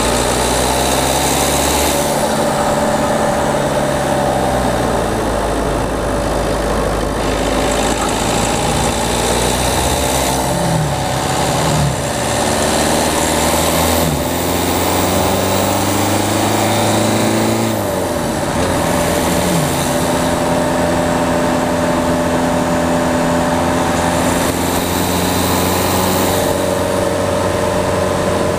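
Peugeot 208's diesel engine driving on, its pitch climbing and dropping again and again through several gear changes, heard from a camera mounted on the front of the car.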